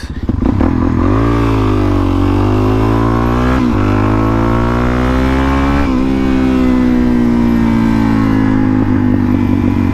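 Dirt bike engine running, its pitch climbing about a second in and wavering, with two short throttle blips in the middle, then settling and slowly dropping.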